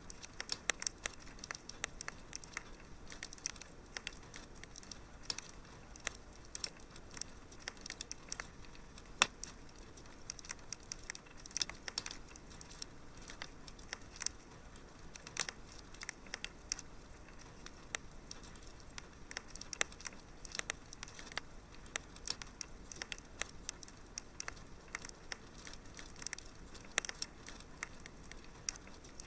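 Fireplace crackling: a steady run of irregular pops and snaps over a soft hiss.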